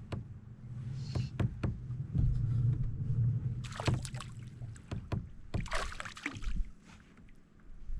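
Handling noises aboard a fishing kayak: knocks and clicks on the hull with a low rumble, and two short bursts of noise about four and six seconds in.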